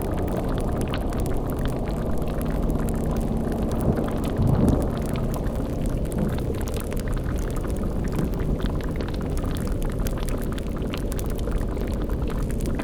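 Spooky ambience mix of a bubbling, boiling cauldron and crackling fire over a steady low hum, with a brief louder low swell about four and a half seconds in.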